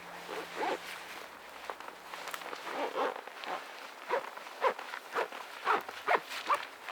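A series of short rustling scuffs, irregular at first and coming about two a second in the second half.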